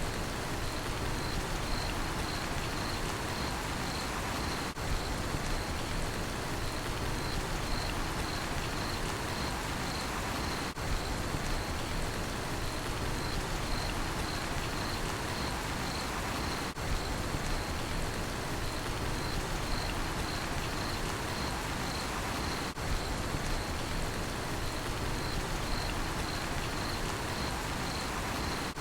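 Steady rain falling, with a cricket chirping in a high-pitched, even rhythm throughout.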